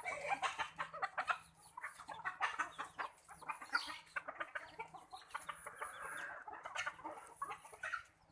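A flock of Sonali chickens clucking, many short overlapping calls and clucks.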